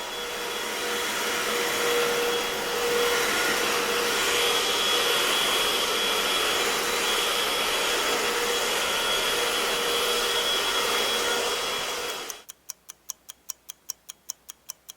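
Vacuum cleaner running steadily with a whine, then switching off suddenly about twelve seconds in. A clock then ticks quickly, about three to four ticks a second, as a countdown timer.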